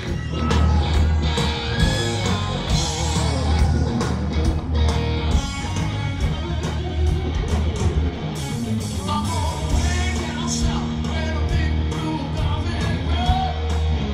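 Live rock band playing with a male lead singer: electric guitars, bass and drums, recorded from the audience at a loud concert.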